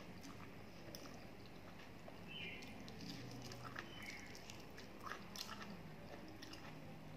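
Faint close mouth sounds of a person chewing a mouthful of water-soaked rice (panta bhat) eaten by hand: soft wet smacks and small clicks, with a couple of slightly louder smacks about two and a half and four seconds in.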